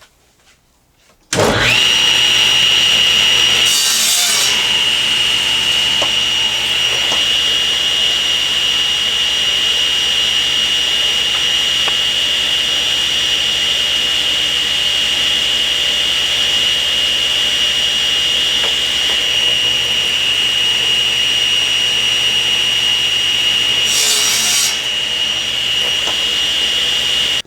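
Table saw starting up, its whine rising quickly and then running steady. Twice the blade briefly crosscuts a narrow board, a few seconds in and again near the end: squaring one end and cutting the board to length.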